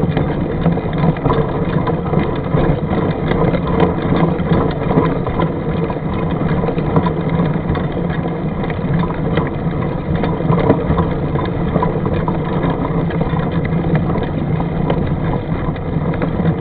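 Steady rumbling wind on the microphone with the rattle and clatter of a mountain bike riding over a rough trail.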